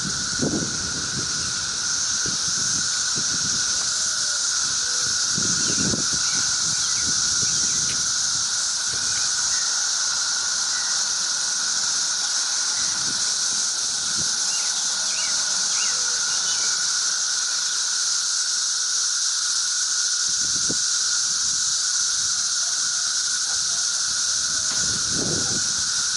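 Dense chorus of cicadas: a loud, unbroken high hiss with a steadier, lower whine beneath it. Occasional low rustles and bumps come through underneath.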